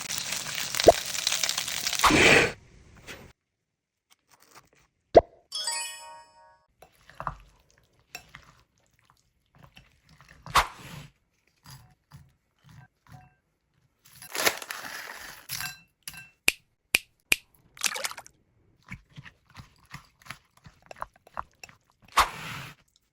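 Home kitchen food-preparation sounds: a couple of seconds of dense hiss at the start, then scattered clicks, knocks and crunches from handling food and utensils. About six seconds in there is a brief pitched jingle.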